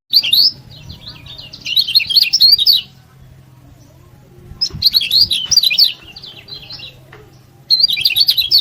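Lemon-bellied white-eye (kecial kuning) singing in four bursts of rapid, high, sliding chirps, each lasting about a second with short pauses between, with a faint low hum underneath.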